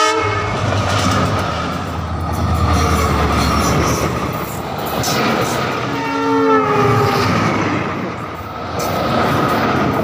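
A diesel locomotive-hauled passenger train passing at speed: engine rumble and the rush and clatter of wheels on the rails. About six seconds in, the locomotive's horn sounds for about a second, its pitch dropping slightly.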